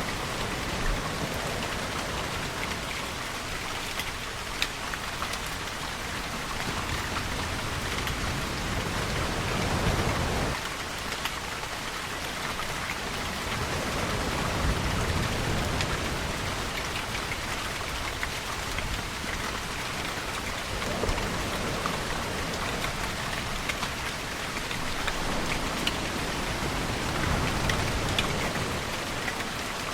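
Steady rainfall with scattered sharper drop ticks. Several slow, low swells rise and fade every few seconds beneath it.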